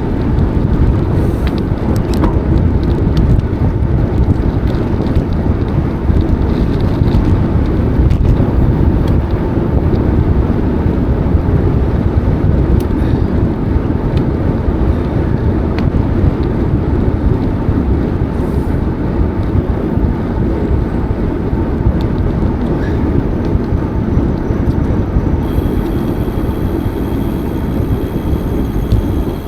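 Steady low wind rumble on the microphone of a moving bicycle, with no break.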